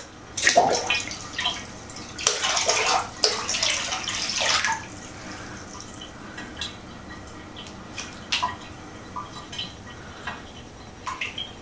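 Water splashing in two noisy bouts in the first five seconds, then scattered small drips and splashes.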